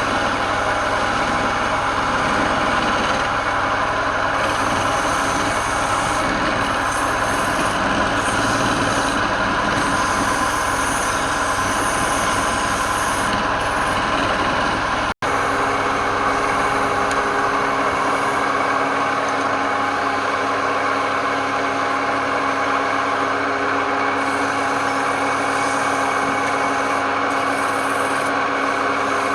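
Woodturning lathe running steadily, its motor hum mixed with a broad hiss. About halfway through the sound breaks off for an instant and comes back changed, with less deep hum and different steady tones.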